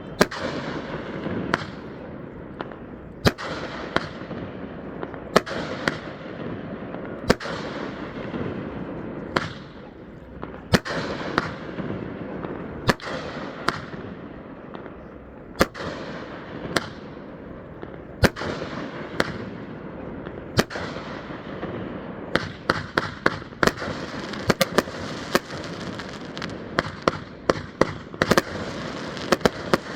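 Fireworks going off: sharp bangs about one to two seconds apart, each trailing off in a fading echo. About two thirds of the way through they speed up into a rapid run of many bangs close together.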